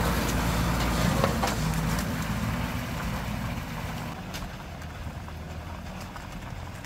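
Vehicle engine running at low revs, with a few sharp knocks in the first seconds, then growing fainter.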